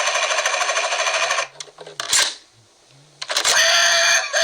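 Cars Dinoco helicopter toy's small speaker playing its helicopter sound effect, a rapid electronic chopping of the rotor, which stops about a second and a half in. A sharp click follows, and near the end another loud electronic sound from the toy starts.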